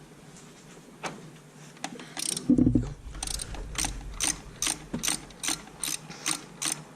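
Socket ratchet wrench clicking as it is worked back and forth on the mounting bolt of a Ford Ranger's serpentine belt tensioner, undoing the old tensioner. Scattered clicks, a single low knock about two and a half seconds in, then a steady run of about three clicks a second.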